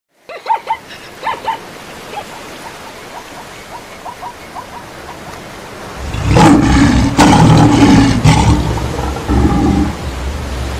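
Storm-and-animal sound effects: a few short animal calls near the start over a steady rain-like hiss, then a loud, low roar from about six seconds in that lasts some three seconds and fades back into the hiss.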